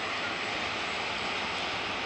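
Double-deck passenger train rolling across a river bridge some way off, a steady even rushing noise with no distinct clanks or horn.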